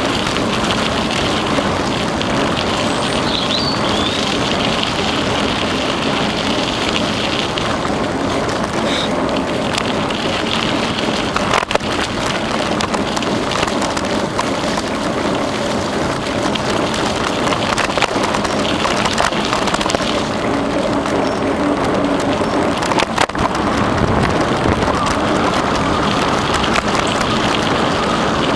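Steady rushing noise of a bicycle rolling along a trail, the tyres on the surface and the bike rattling, with occasional sharp knocks from bumps, clearest about 12 and 23 seconds in.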